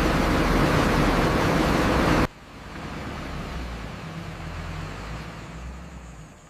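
Heavy vehicle on the move: a loud, steady rush of road and engine noise that cuts off suddenly after about two seconds, followed by a lower engine rumble.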